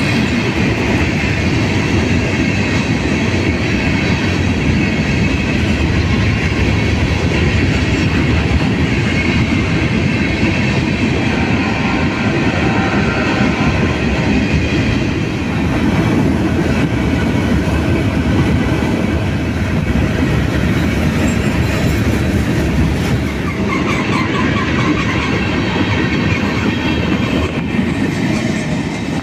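A freight train's cars rolling past close by in a steady, loud rumble of wheels on rail. A faint wheel squeal rises over it about halfway through and again near the end.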